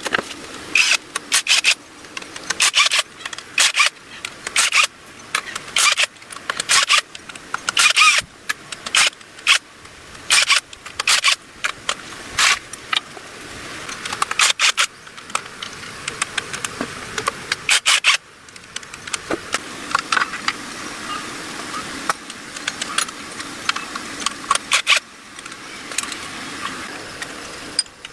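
Hand tools and metal engine parts clicking and clinking in irregular quick bursts, crowded for most of the time, then sparser after a short lull.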